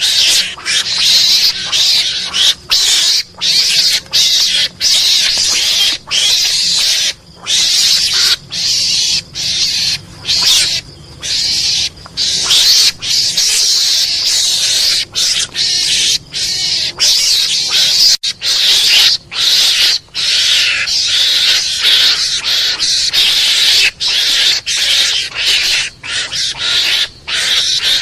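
Mongoose (garangan) lure call: harsh, hissing, screeching chatter in long runs, broken by short gaps about once or twice a second.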